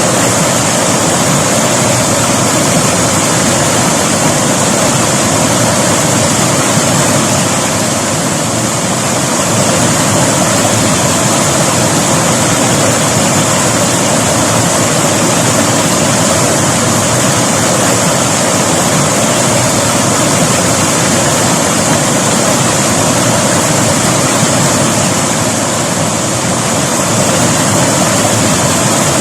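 River water rushing and splashing over rocks, a loud, steady rush with no let-up.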